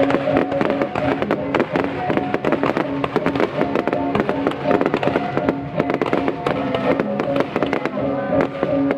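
A fireworks display crackling and popping in rapid, irregular succession, mixed with music of steady held notes.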